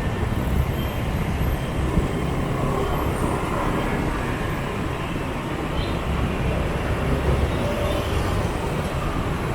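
Steady rumble of city motorbike traffic heard from a moving motorbike: engines and road noise running together, with no single event standing out.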